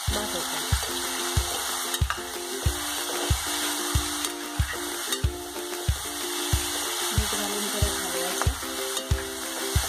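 Boneless chicken pieces sizzling in a pot with ghee, garlic and chillies as a metal utensil stirs them. Background music with a steady low beat, about one pulse every two-thirds of a second, runs underneath.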